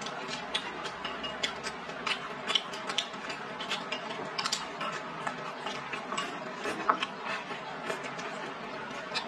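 Close-up chewing of a mouthful of rice and stir-fried vegetables, with irregular quick wet mouth clicks and smacks, several a second.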